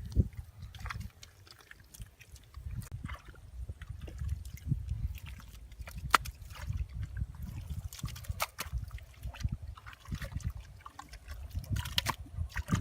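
Water sloshing, trickling and dripping, with scattered sharp clicks and splashes over a constant low rumble; the loudest click comes about halfway through.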